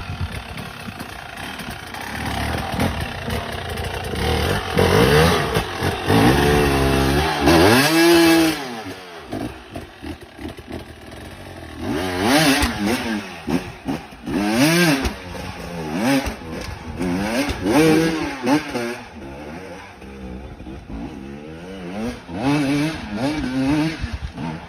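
Off-road motorbike engines revving, the pitch surging up and falling back again and again in quick bursts, with the sound changing abruptly between different machines.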